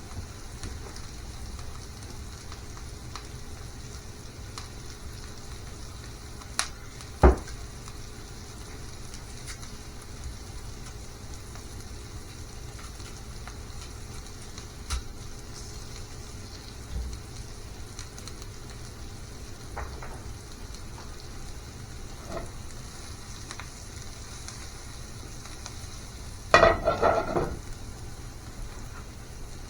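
Food sizzling steadily as it fries in a pan, with an occasional knock of a utensil against the pan, the sharpest a little past seven seconds, and a short clatter of utensils near the end.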